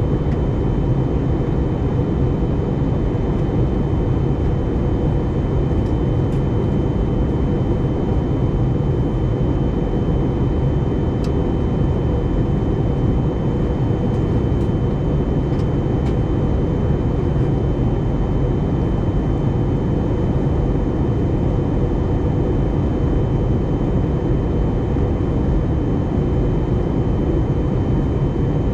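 Steady cabin noise inside an Airbus A320-251N during descent: the rush of airflow and the hum of its CFM LEAP-1A engines, with a thin steady whine above it.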